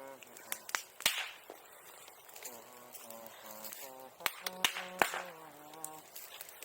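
Bonfire burning, with irregular sharp pops and cracks from the wood. The loudest pops come about a second in and again around four to five seconds in.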